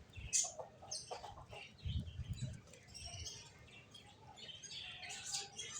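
Finches chirping: many short, quick high calls overlapping one another, with a brief low thump about two seconds in.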